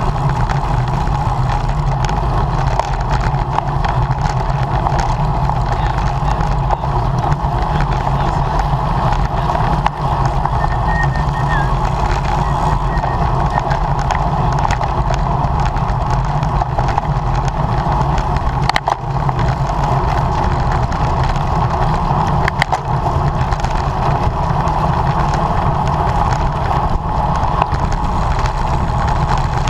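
Steady rush of wind and road noise on a camera riding on a racing bicycle at speed, with a couple of sharp clicks in the second half.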